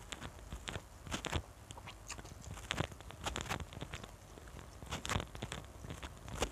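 Close-miked eating sounds: chewing with irregular crisp crunches and small mouth clicks, as crispy fried tempeh and rice are eaten by hand.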